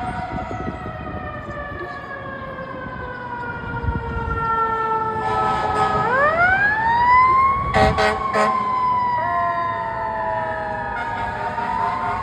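Fire truck's mechanical siren winding slowly down in pitch, then spinning back up sharply about halfway through and coasting down again, with three quick blasts near its peak.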